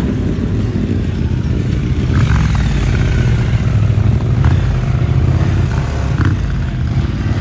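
Motorcycle engine running steadily with a low, even note.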